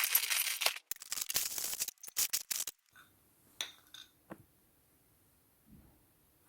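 Crinkly rustling and rattling of a plastic packet of oat clusters being handled and poured out for measuring, in three bursts over the first three seconds, then a few light clicks.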